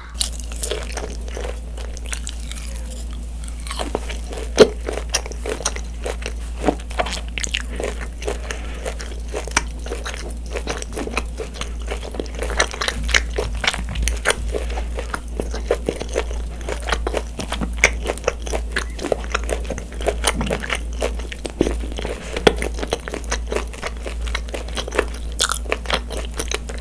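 Close-miked chewing of a cube of beef steak: a dense, irregular run of mouth clicks and chewing noises, over a steady low hum.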